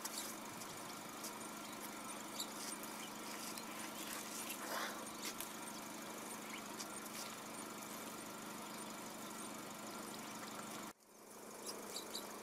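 Vehicle engine idling steadily at low volume, with scattered faint high ticks. The sound cuts out for a moment near the end, then fades back in.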